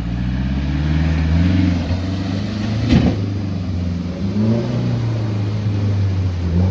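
Car engine running steadily, its pitch rising and falling a little, with a single sharp click about three seconds in.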